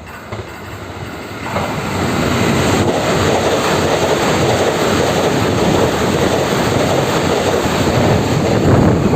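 Taiwan Railways EMU900 electric multiple unit passing without stopping: the rumble of wheels on rail grows sharply about a second and a half in, then holds steady and loud.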